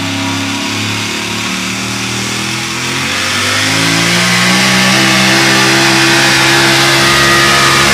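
Super modified four-wheel-drive pulling truck's engine running hard, revving up about three seconds in and holding at high revs.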